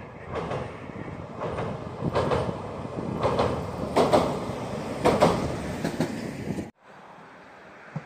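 Electric train crossing a steel girder bridge: a steady rumble with a run of sharp beats from the wheels passing over rail joints. It cuts off suddenly near the end, leaving a quieter steady background.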